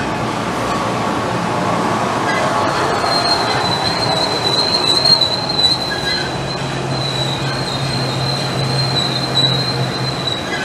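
NJ Transit electric multiple-unit commuter train rolling past, with a steady high-pitched metallic squeal setting in about three seconds in and a low hum joining about six seconds in.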